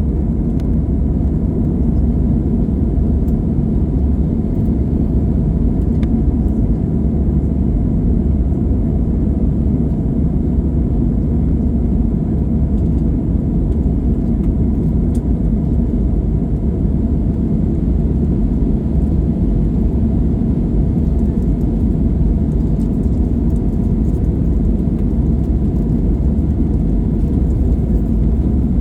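Airliner jet engines and airframe heard from inside the passenger cabin: a steady, loud, low rumble.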